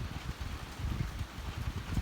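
Rain falling in a steady hiss while gusts of wind buffet the microphone in uneven low rumbles.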